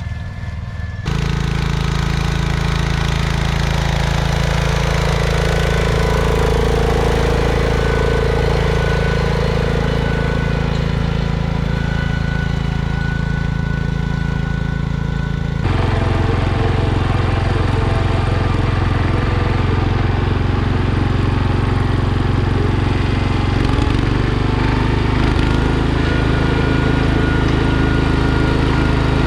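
Small garden tractor engines running steadily under load. The sound changes abruptly twice: about a second in and again about halfway through.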